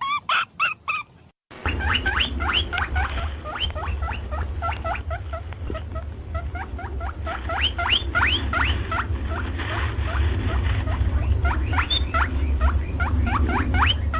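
A chipmunk chirping rapidly and repeatedly, each call a quick rising squeak, over a steady low rumble. It begins after a brief break about a second and a half in, following the tail of another animal's fast pulsed calls.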